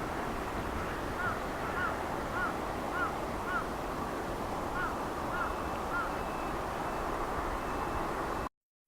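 Steady rushing noise of a distant jet airliner and wind. Over it, a run of short chirps comes about twice a second, five then three. The sound cuts off abruptly near the end.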